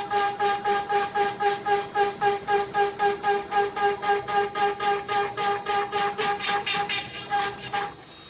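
CNC router spindle with an end mill cutting birch wood: a steady high spindle whine with a rhythmic cutting noise pulsing about four times a second. Near the end the cutting stops abruptly and only a quieter steady hum remains.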